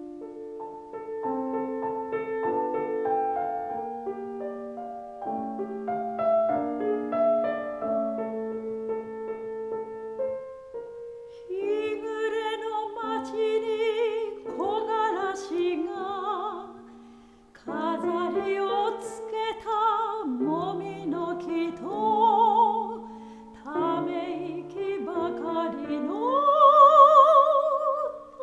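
Solo piano introduction, then a soprano voice with wide vibrato enters about eleven seconds in and sings a Japanese art song over piano accompaniment.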